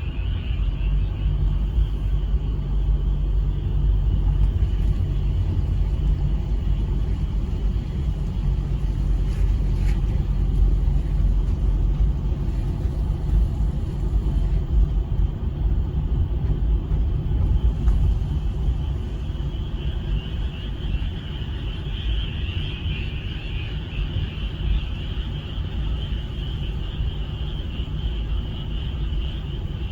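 A steady low rumble with a continuous high chorus of frogs over it; the chorus fades in the middle and swells again about two-thirds of the way through.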